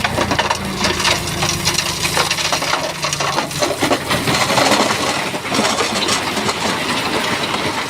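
Shantui bulldozer's diesel engine running while its blade pushes rock, with a dense clatter of stones grinding and tumbling over one another. The engine's steady tone fades about three and a half seconds in, and the rock clatter carries on.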